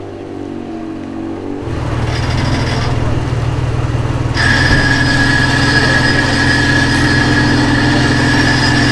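Car engine idling; it grows louder about one and a half seconds in, and a steady high-pitched whine joins it about four seconds in.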